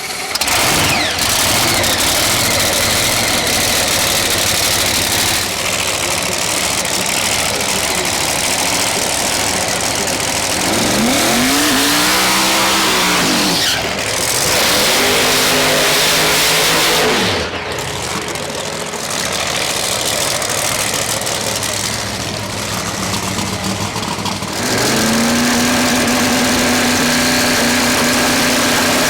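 Drag racing car engines running hard for long stretches. About halfway through, the engine pitch rises and then falls as a car goes by, and a steadier engine drone holds near the end.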